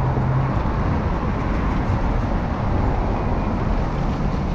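Steady street traffic noise: a continuous hiss of passing vehicles, with a low engine hum for the first half second that comes back near the end.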